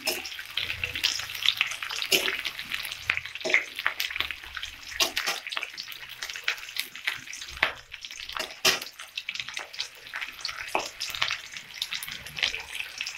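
Sliced onion, green chillies and a bay leaf sizzling in hot mustard oil in a metal kadai, with a metal spatula scraping and knocking on the pan in irregular strokes as they are stirred. The onions are being fried until they brown.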